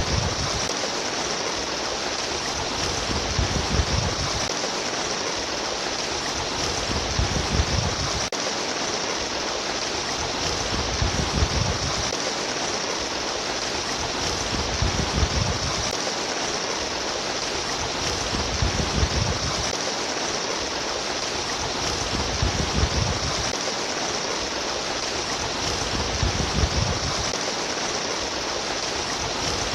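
Trickling, splashing water in a steady rush, with a low gurgle that swells about every four seconds.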